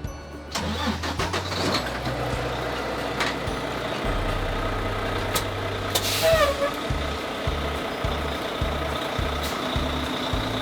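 A semi truck running with a steady low hum, and a sharp hiss typical of an air brake about six seconds in.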